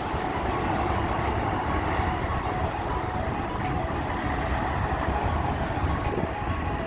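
Steady low rumble of a metro train running past, with faint whining tones above it.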